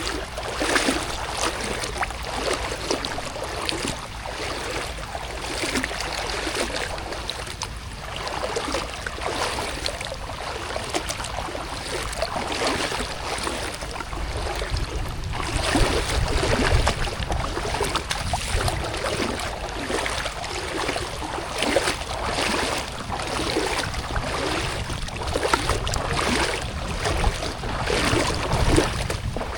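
Splashing water in a regular rhythm, roughly once a second, typical of steps wading along a flooded rice-field path in the rain, over a steady low rumble of wind on the microphone.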